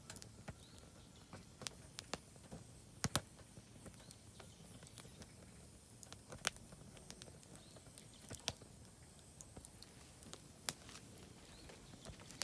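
Oak firewood burning in a fire pit, crackling with scattered sharp pops at irregular intervals, the loudest a quick double pop about three seconds in.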